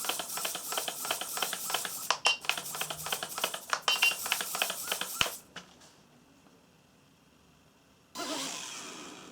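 Rapid, irregular clicking and rattling that stops abruptly about five seconds in. A short burst of rushing noise comes about eight seconds in and fades away.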